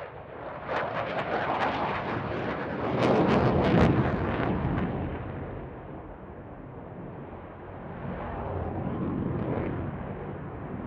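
Jet aircraft passing in a flying display: crackling jet noise builds to its loudest about three to four seconds in, fades, then swells again more softly near the end.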